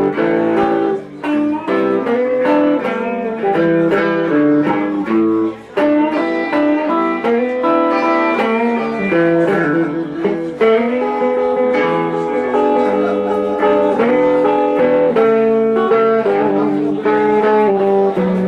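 Live Chicago blues band playing an instrumental break, an electric guitar playing quick single-note lead lines over the band.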